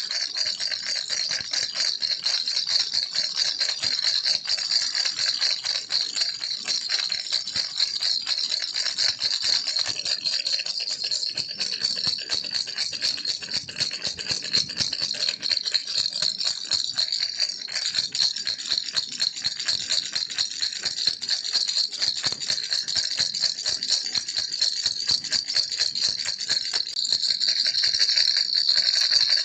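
Baby's toy rattle shaken without pause, a dense, high-pitched stream of small rattling clicks, a little louder near the end.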